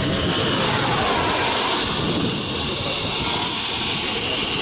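Model jet turbine engine running with a high whine that slowly rises and falls in pitch, over a steady rushing noise.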